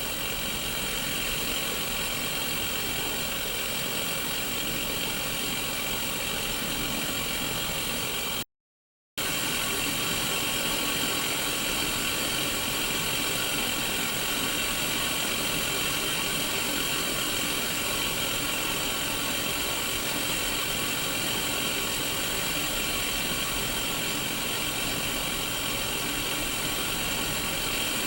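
Steady white-noise static hiss from a Sony Mega Watchman black-and-white mini CRT TV. The hiss cuts out completely for under a second about eight seconds in, then resumes unchanged.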